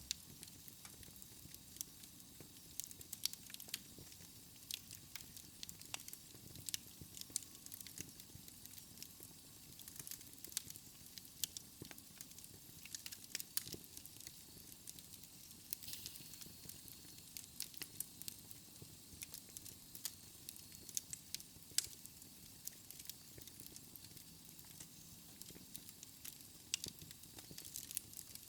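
Wood logs burning in a fireplace, crackling with frequent irregular sharp pops and snaps over a soft steady hiss.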